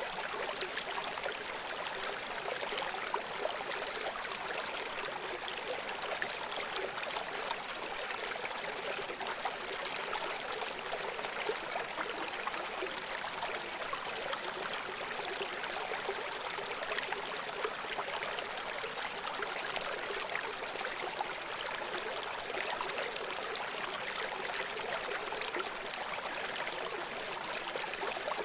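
Running stream: water flowing and splashing steadily over stones, a continuous bright babble with many small splashes and little low rumble.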